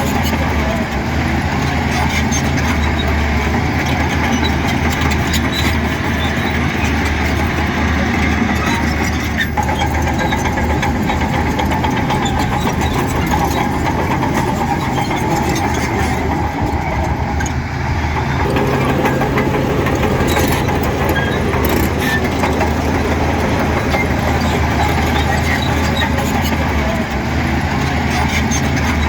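Heavy diesel engines of earthmoving machinery running steadily under work, with a low engine drone throughout. The sound shifts abruptly twice, about a third and two-thirds of the way through.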